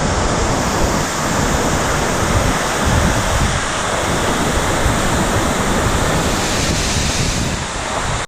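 Loud, steady rush of tropical-storm wind and rain, with uneven gusts buffeting the microphone.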